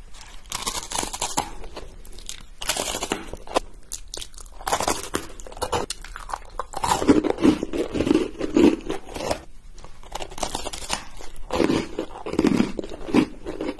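Close-miked biting and chewing of crunchy ladyfinger biscuits with Nutella: crisp, irregular crunches, followed by chewing.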